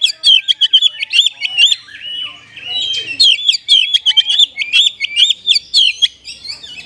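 Oriental magpie-robin (kacer) singing a fast run of sharp, repeated chirping notes that sweep up in pitch, with a short lull about two seconds in: its song delivered in the mimicking 'kapas tembak' style.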